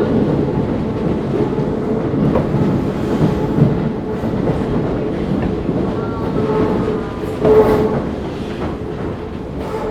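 Keisei 3500-series electric train running, heard inside the motor car: a steady rumble and hum with wheels clacking over rail joints. There is a louder burst about seven and a half seconds in, and the sound gets quieter toward the end.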